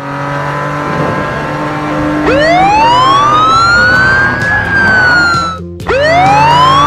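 Cartoon ambulance siren wailing. The pitch rises slowly from about two seconds in and eases down, cuts off briefly, then starts rising again near the end. Background music plays underneath.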